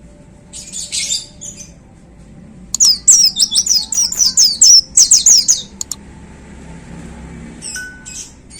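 Caged white-eye (pleci) singing in full voice. A short chirpy burst comes about half a second in, then a loud, rapid run of sharp down-slurred high notes lasts about three seconds, and a brief burst follows near the end. This is the loud, rapid 'shooting' (tembakan) song that keepers prize in a bird in top singing form (gacor).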